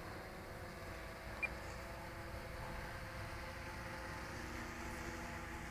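Electric motor and propeller of a radio-controlled model plane in flight, a steady drone with an even pitch, over low wind rumble on the microphone. A single short click about a second and a half in.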